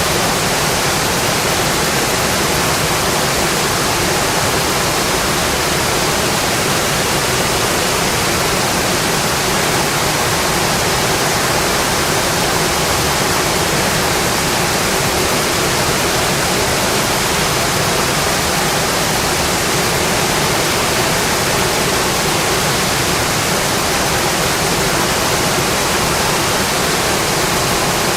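Steady, dense rain hiss of rain tapping on a windowpane, unchanging throughout.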